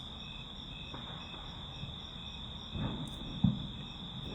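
Crickets chirping: a steady high trill with fainter pulsed chirps about twice a second. A single short low thump comes about three and a half seconds in.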